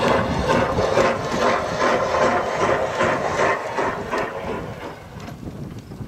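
Trackless ride-on kiddie train running past, a steady hum with a rhythmic chugging of about two beats a second, fading as the train moves away near the end.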